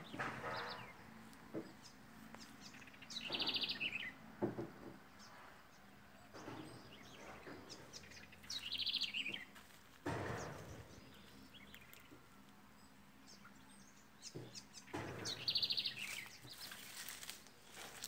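A small wild bird gives a fast, buzzy trill three times, each under a second long, among fainter chirps. Dry brush and twigs rustle and crunch in between.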